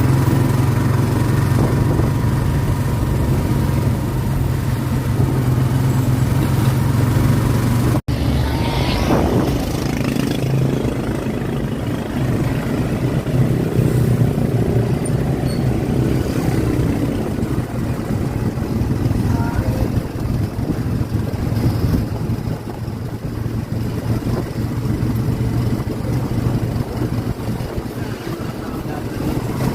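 An engine running steadily, with a brief cut in the sound about eight seconds in.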